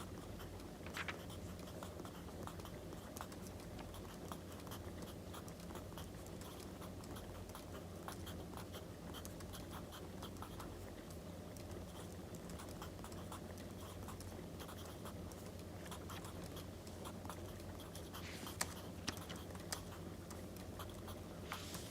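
Wood fire crackling, a dense run of small pops and snaps over a steady low hum, with a few louder snaps near the end.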